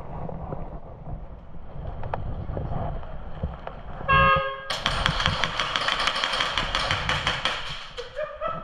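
A horn sounds one short blast about four seconds in, and right after it airsoft guns open up, firing rapid shots for about four seconds.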